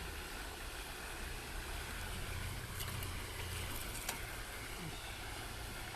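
Steady outdoor background noise, a low rumble under a hiss, with a few faint clicks in the middle.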